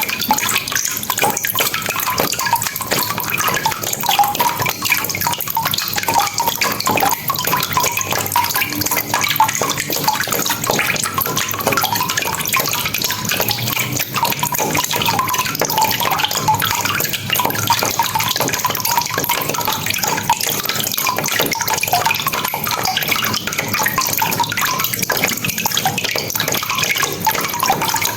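Steady rain: countless close drop hits over a constant hiss, without a let-up.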